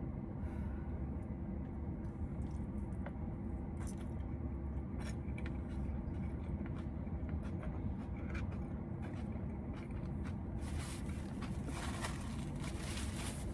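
A person chewing a big mouthful of salad bowl with salmon, slaw and cucumber, with scattered small clicks and a busier stretch of chewing near the end, over a steady low hum.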